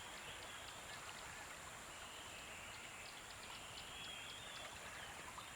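Faint nature-sounds bed: a steady rush of running water like a stream, with faint short chirps now and then.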